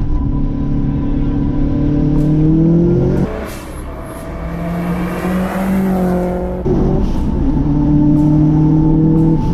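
Subaru Impreza STI's turbocharged boxer four-cylinder engine pulling hard uphill, revs climbing through the gear, heard from inside the car. About three seconds in the sound switches to the car heard from the roadside, approaching and growing louder, before cutting back to the inside sound with the revs rising again.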